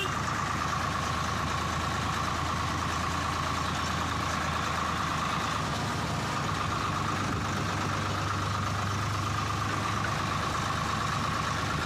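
Swaraj 855 FE tractor's three-cylinder diesel engine running steadily at an even speed.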